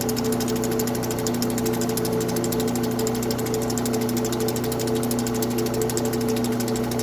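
Lapidary cabbing machine's heavy grinding wheel running while a llanite slab is ground to shape: a steady motor hum with a fast, even rasp of stone on the wheel.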